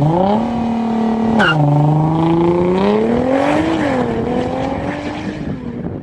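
A car engine accelerating hard through the gears. The revs climb, drop sharply at an upshift about a second and a half in, climb again and drop at a second upshift near four seconds, then hold and fade.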